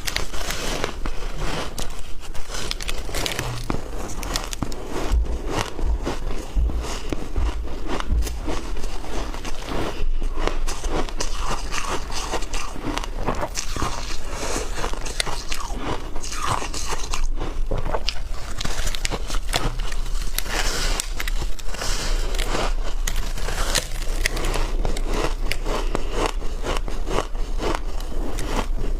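Someone biting and chewing frozen ice in the mouth: a continuous run of dense crunching and crackling, bite after bite without pause.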